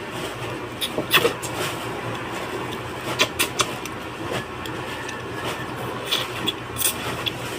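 Eating sounds at a meal: sharp clicks and clinks, likely utensils against dishes, come in three short clusters, about a second in, around three seconds and between six and seven seconds. A steady low hum runs underneath.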